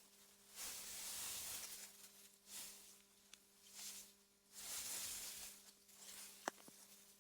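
Soft wind rustling through meadow grass in gentle swells that rise and fade every second or so, over a faint steady hum, with a single sharp click about six and a half seconds in.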